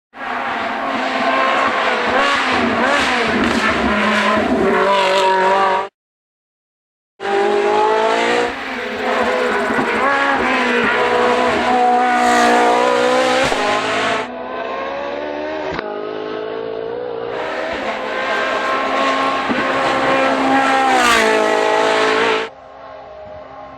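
Ferrari 458 Challenge's 4.5-litre V8 racing engine run flat out at high revs, its pitch climbing and dropping back as it goes through the gears. The sound cuts off for about a second some six seconds in, and is quieter for a stretch in the middle and again near the end.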